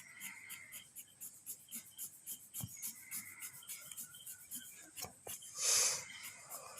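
Shading pencil rubbing across drawing paper in quick, short, repeated strokes, about three a second, laying in the shadow tone of a drawing. A louder rush of noise about a second long comes near the end.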